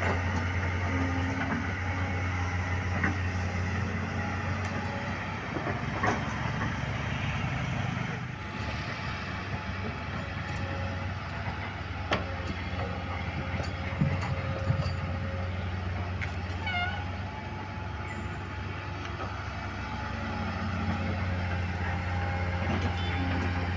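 Heavy diesel engine running steadily with a low, even hum, with a few sharp clicks and knocks.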